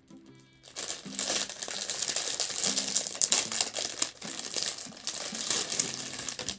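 Packaging being crinkled and handled in quick, dense crackles, starting about a second in, over faint background music.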